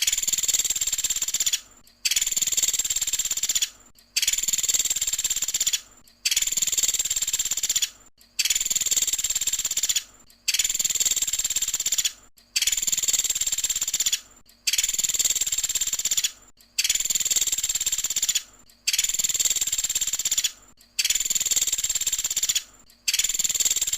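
Woodpecker (pelatuk sampit) calling in long, even, high-pitched trills, each lasting nearly two seconds with a short break, repeating about every two seconds in a steady run.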